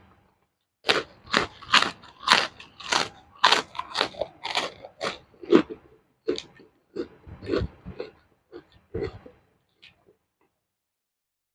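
Close-up crunchy bites and chewing of raw vegetables (lalapan): sharp crunches about twice a second at first, then slower, softer chewing that fades out.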